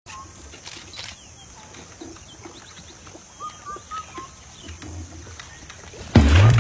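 Quiet outdoor ambience with faint, short bird chirps and a couple of light clicks near the start. A much louder sound with a low, bending pitch starts suddenly about half a second before the end.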